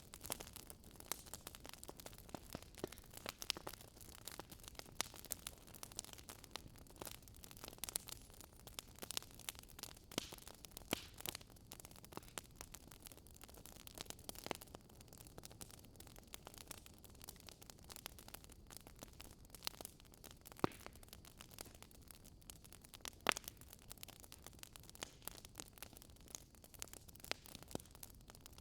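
Wood fire crackling: a steady low hiss with frequent irregular pops and snaps, a few of them sharper and louder.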